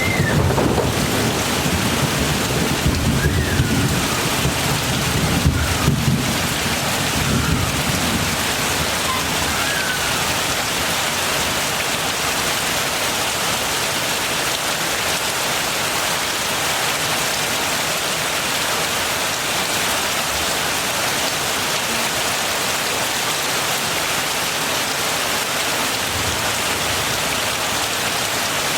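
Steady heavy rain falling, with thunder rumbling low through the first several seconds and fading out by about eight seconds in, leaving only the even sound of the rain.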